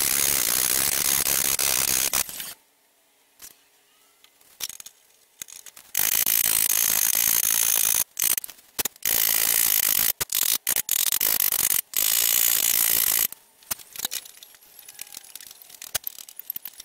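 Rapid, dense metallic tapping: a tap-down tool struck against a car fender's panel to knock down the high spots of a dent during paintless dent repair. It comes in long runs, stops for a few seconds near the start, and thins to scattered single taps near the end.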